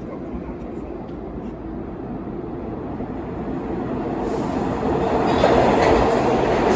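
New York City Subway R62A train running past the platform, its rumble growing steadily louder, with a brighter hiss joining about four seconds in.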